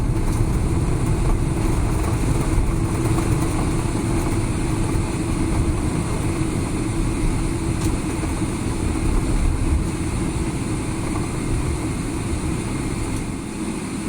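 Cabin noise of a Boeing 777-300ER on the ground just after landing: a steady low rumble from the engines and wheels with a constant hum, easing off slowly toward the end as the aircraft slows.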